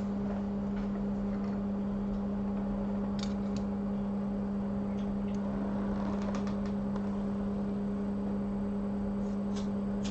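Steady electrical hum of bench equipment, one constant low tone with an overtone, with a few faint ticks and clicks from handling tools.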